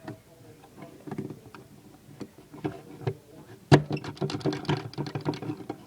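Plastic Lego engine parts clicking and knocking as they are handled. About three and a half seconds in, one loud click is followed by a quick run of rattling clicks lasting about two seconds.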